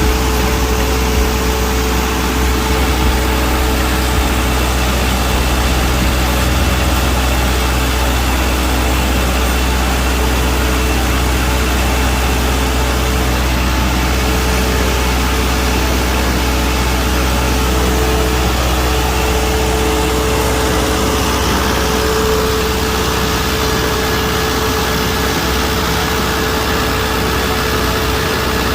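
Genset engine running at a steady speed: a deep, unchanging drone with a thin, steady whine above it.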